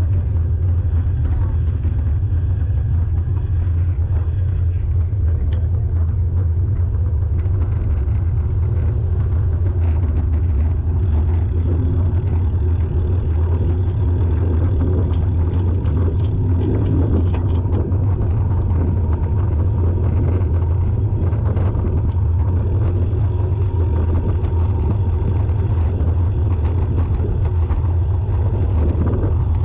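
A motor vehicle's loud, steady low rumble.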